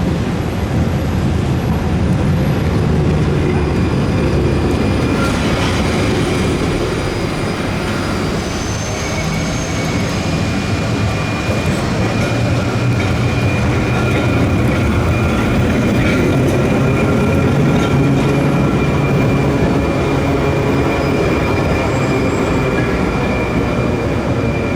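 Trieste–Opicina tramcar running along its rails: a steady rumble with a thin high-pitched tone from the wheels on the track.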